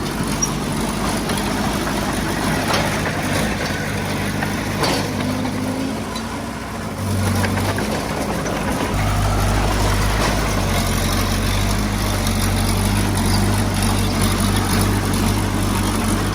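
Diesel engine of heavy earthmoving equipment running steadily. Its sound dips briefly about six seconds in, then picks up again and holds a slightly fuller, steady note.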